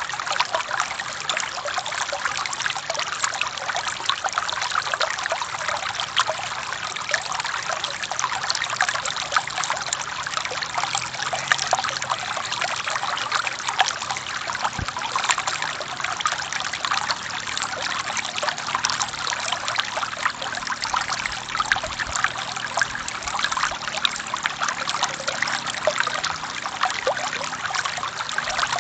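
A forest stream flowing steadily: a continuous rush of water with many small splashes and trickles.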